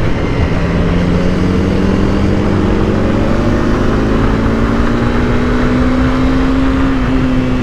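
Honda CBR300R's single-cylinder engine under steady throttle, its pitch climbing slowly as the revs build and easing off a little near the end, with wind rush over the microphone.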